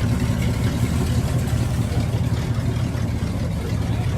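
A car engine idling steadily, with a deep, even hum.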